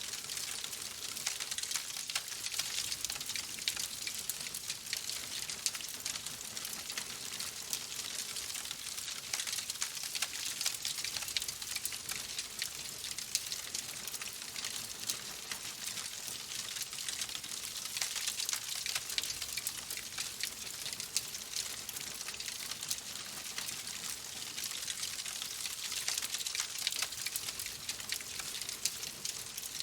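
Wood fire crackling in a fireplace: a steady hiss dense with many small, quick pops and snaps.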